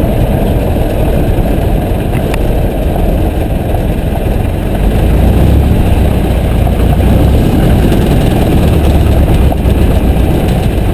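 Piper J3 Cub's piston engine running steadily, a loud low drone that swells a little in the middle.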